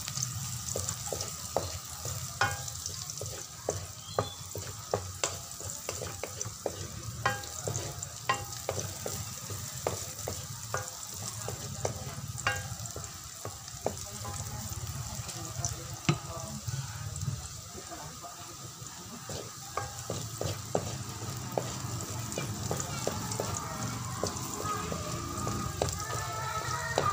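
Chopped garlic and onions sizzling as they sauté in a metal wok, close to browning, with a wooden spatula scraping and clicking against the pan as they are stirred. The clicks come thick and fast in the first half and thin out later.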